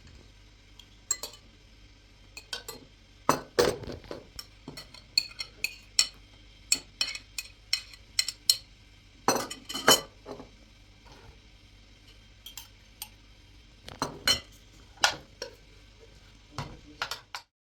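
Kitchen clatter: irregular clinks and knocks of utensils against a pot and dishes, some ringing briefly.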